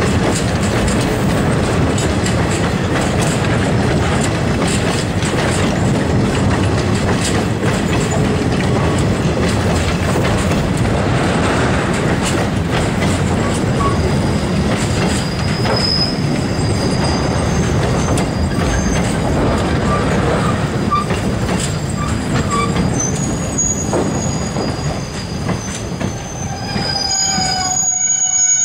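Loaded intermodal container wagons of a freight train rolling past close by: a steady heavy rumble with wheel clatter. High wheel squeals come and go from about halfway, and a stronger pitched squeal with several overtones sets in near the end.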